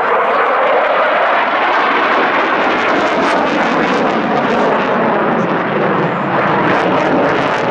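Loud, steady engine noise from a fixed-wing aircraft in flight.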